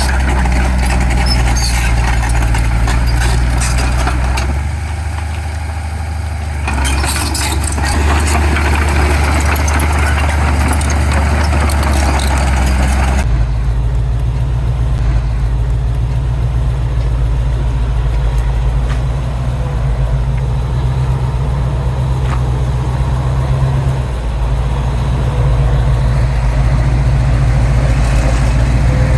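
Heavy diesel construction machinery running with a steady engine note. For the first part a rough clattering noise rides over it, dipping briefly a few seconds in. About halfway through an abrupt change leaves a smoother, steady engine sound.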